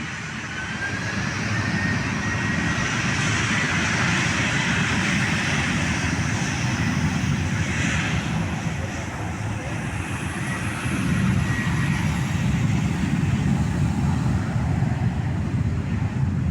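Airliner engines passing loud and close, a steady roar that builds over the first few seconds, with a thin whine rising in pitch.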